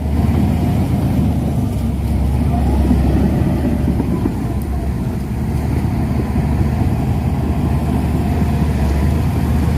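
Shantui DH17C2 bulldozer's diesel engine running with a steady, deep sound.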